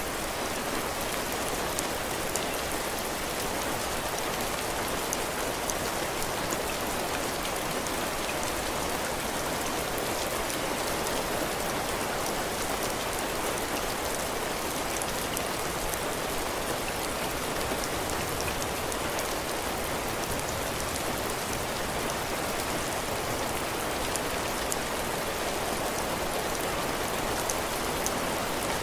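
Steady heavy rain falling on a cabin porch, its roof and the ground, an even hiss with scattered small drop ticks.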